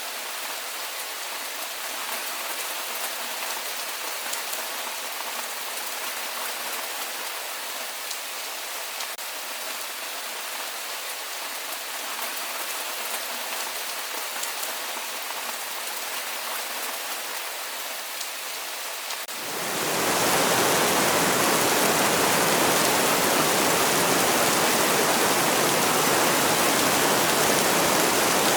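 Steady rainfall: an even hiss with fine drop patter. About two-thirds of the way in it abruptly gives way to a much louder, deeper, even rush of heavy rain.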